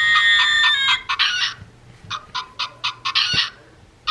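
Recorded chicken calls played through a plush toy bird's small sound box: a long held call that ends about a second in, then two short clucks, thin and without any low end.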